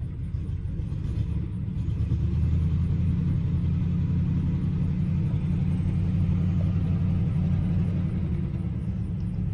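1971 Oldsmobile Cutlass S engine idling with a steady low rumble that swells a little from about two seconds in and eases off near the end.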